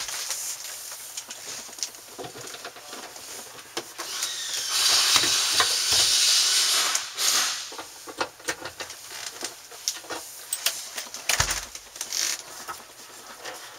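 Work sounds from taking out an interior panel: scattered clicks and knocks, with a loud hissing scrape lasting about two and a half seconds in the middle.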